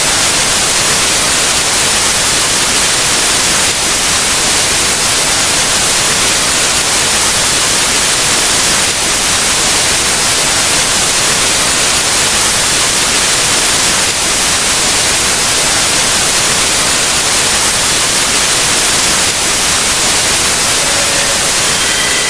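Loud, steady television static: a flat hiss of white noise, the sound of a broadcast signal dropping out. Faint beeping tones begin to show through near the end.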